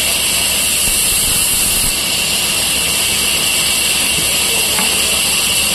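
A machine running steadily with a loud, high, even hiss, dropping slightly about two seconds in.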